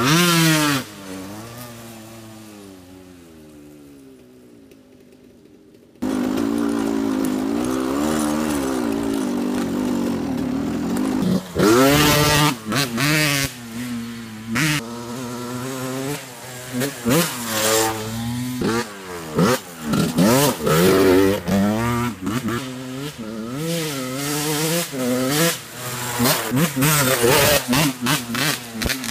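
Dirt bike engine revving as the bike rides off, fading away over the first few seconds. About six seconds in, it cuts to the engine close and loud, revving up and dropping back again and again as the bike is ridden.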